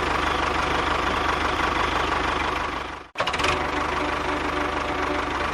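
Engine running steadily with a fast, even chugging beat. It cuts out abruptly about three seconds in and starts again straight away.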